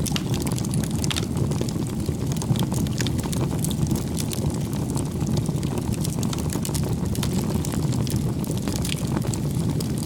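Wood campfire burning, with many small crackles and pops over a steady low roar of the flames.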